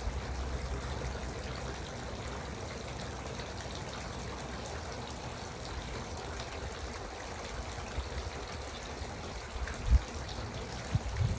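Garden water fountain trickling and splashing steadily, with a brief low thump near the end.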